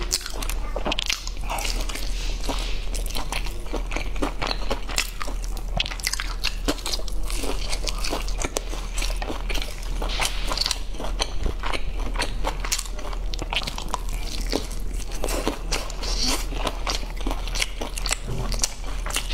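Close-up biting and chewing of sauce-coated fried chicken, with dense, irregular crunches, crackles and wet mouth clicks. A steady low hum runs underneath.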